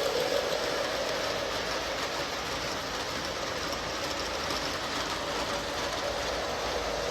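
O scale Lionel model train running on track: two Lion Chief Dash 8 diesel locomotives pulling a string of tank cars, a steady rolling rumble of wheels and motors. It is a little quieter in the middle and louder again near the end.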